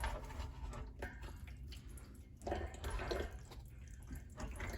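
Faint dripping and trickling water from the sink's tapped supply line, with a few light handling noises as the valve is turned off.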